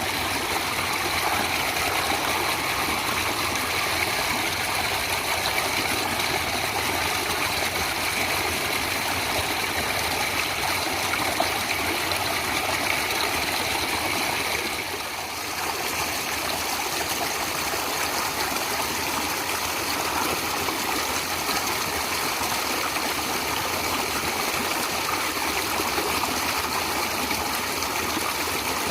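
Natural stream water flowing steadily, a continuous rushing and trickling, with a brief dip in level about halfway through.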